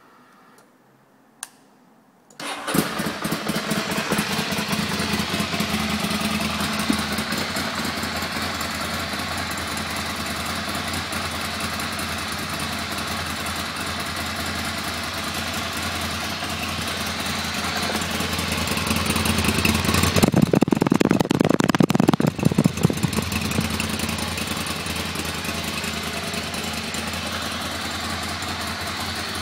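Ducati Monster L-twin engine cold-started: a click, then the engine catches about two and a half seconds in and settles into a steady idle. About two-thirds of the way through the engine note gets louder and rougher for a few seconds, then drops back to idle.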